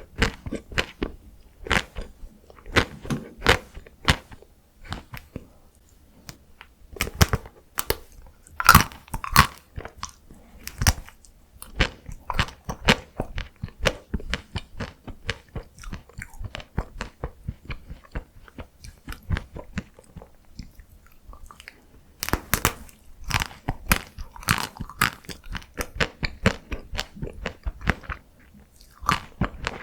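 Close-miked biting and chewing of chocolate-coated matcha ice cream bites: crisp crunches of the chocolate shell mixed with wet mouth clicks, coming in busy clusters with a sparser stretch in the middle.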